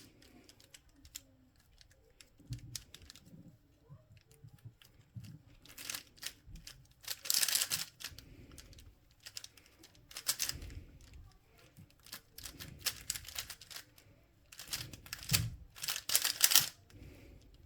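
Puzzle cube being turned by hand: bursts of quick plastic clicking and clacking as layers are spun, with short pauses between runs of turns and the densest runs about seven and sixteen seconds in.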